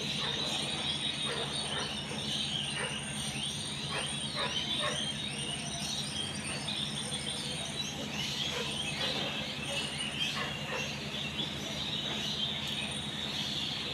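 Small birds chirping, many short repeated calls, over a steady low hum.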